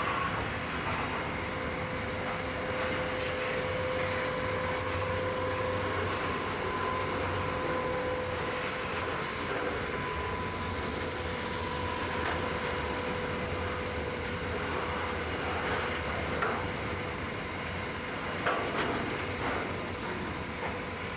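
Long freight train of container wagons rolling past, steel wheels clicking over the rail, with a thin steady whine running under it and a few sharper clicks near the end.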